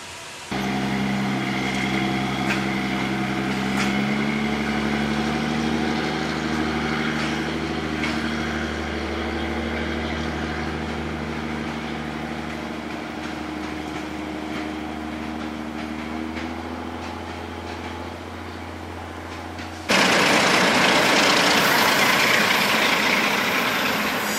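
Diesel engine of a Malaxa 78 railcar idling steadily, its low hum drifting slightly in pitch. About twenty seconds in it cuts abruptly to a louder, steady rushing noise.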